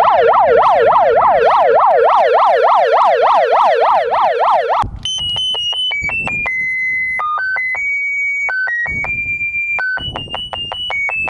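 Megaphone siren yelping rapidly up and down, about four sweeps a second, cutting off just under five seconds in. A beeping electronic tune of stepped single notes follows, like a megaphone's built-in melody setting.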